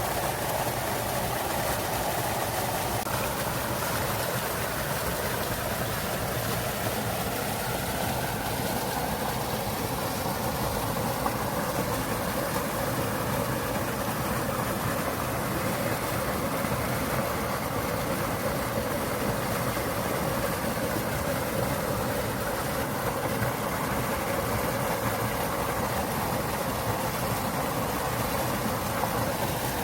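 Small mountain-stream waterfall: water pouring and splashing steadily over rocks, a constant rushing noise without breaks.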